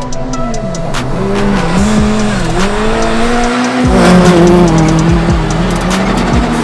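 Rally car engine revving hard, its pitch repeatedly rising and dropping, over background music with a steady beat.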